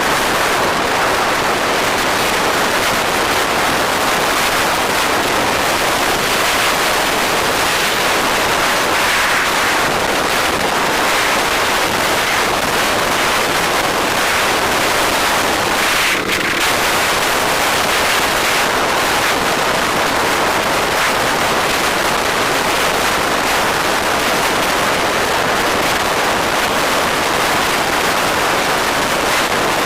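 Steady rushing wind noise on the microphone of a moving bike, with a brief dip about halfway through.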